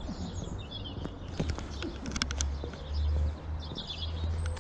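Birds singing and chirping, with a few sharp clicks of footsteps on a path over a steady low rumble.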